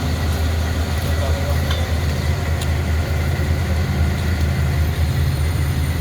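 Steady low drone of running machinery, with a few faint ticks over it.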